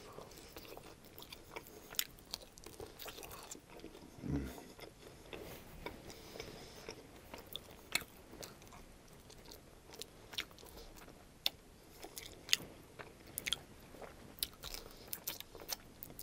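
Close-miked biting and chewing as crispy onion-coated barbecue ribs are gnawed off the bone, with many sharp wet mouth clicks and small crunches. A short low voice sound comes about four seconds in.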